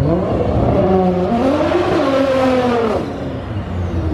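Modified car accelerating hard past with a loud exhaust. The engine pitch climbs, steps at a gear change about a second in, rises again, then falls away as the car goes by.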